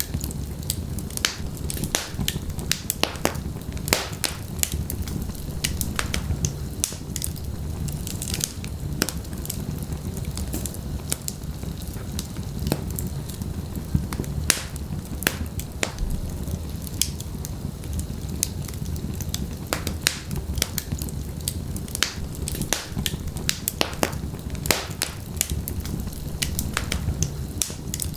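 Wood fire burning in a fireplace: logs crackling and popping in many sharp, irregular snaps over a low steady rumble of the flames.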